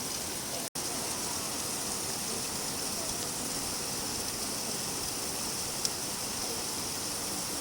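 Steady rain falling, an even hiss without a break in rhythm. The sound cuts out for an instant under a second in, and there is a faint tick near the end.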